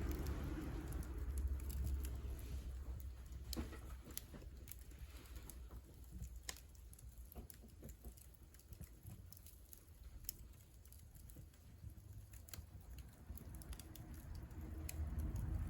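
Wood fire crackling in a wood-burning stove: scattered sharp pops and snaps. A low rumble sits underneath, fading after the first few seconds and swelling again near the end.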